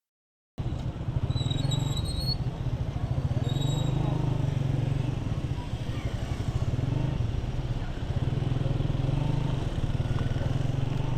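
Honda CG 125's single-cylinder four-stroke engine running steadily under way, cutting in suddenly after about half a second of silence. A few short high chirps sound in the first few seconds.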